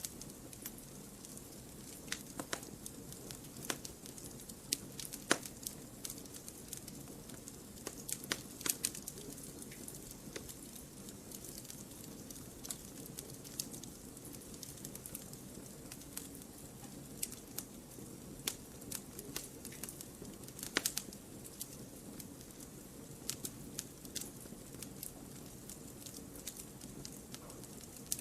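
Fire burning in a fireplace: irregular sharp crackles and pops over a steady soft hiss.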